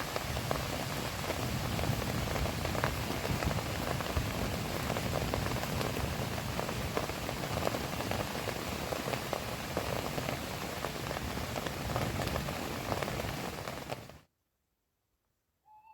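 Steady heavy rain falling on the camp's tarp shelter, which fades quickly to silence near the end. A single short pitched call follows right at the end.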